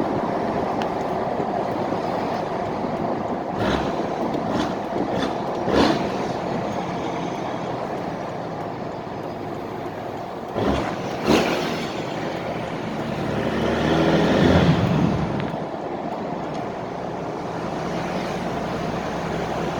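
Straight-piped 2003 Cummins diesel running under way, with a few sharp knocks about 4, 6 and 11 seconds in. The engine sound swells and then drops back around fifteen seconds in.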